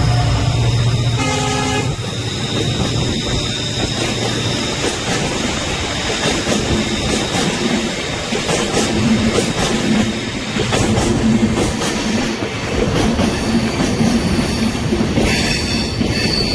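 A train passing close by on the rails. Its horn sounds for about the first two seconds, followed by the rumble and clickety-clack of the wagons' wheels over the track, with a brief high tone near the end.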